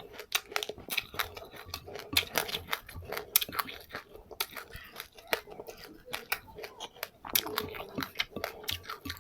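A person chewing passionfruit with crunchy seeds close to the microphone: an irregular run of crisp crunches, several a second.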